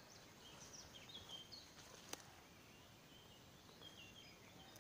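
Near silence outdoors, with faint, scattered chirps of distant small birds. A single sharp click about two seconds in.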